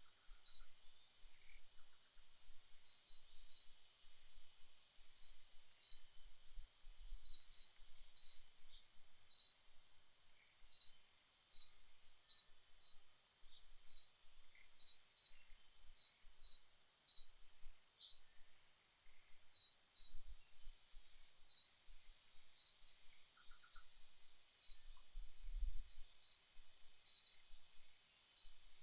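A bird chirping, short high-pitched notes repeated every half second to a second, sometimes in quick pairs, over a faint steady high-pitched hiss.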